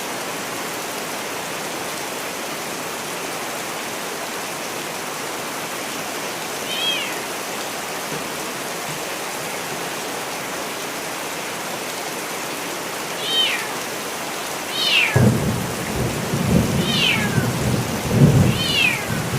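Steady rain with a cat meowing five times, each meow falling in pitch. About fifteen seconds in, a low rumble of thunder starts suddenly and carries on under the rain.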